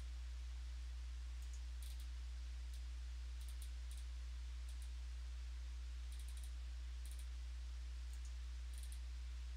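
Faint, irregular clicks of typing on a computer keyboard and clicking a mouse, in small clusters, over a steady low electrical hum.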